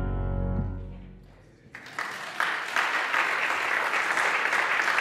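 A final piano chord rings out and dies away. Then, a little under two seconds in, an audience starts applauding and keeps clapping steadily.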